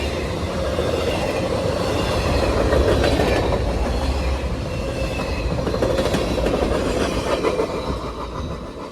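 CSX freight train's cars rolling past a grade crossing, wheels clacking over the rails with a faint high wheel squeal. The sound fades near the end.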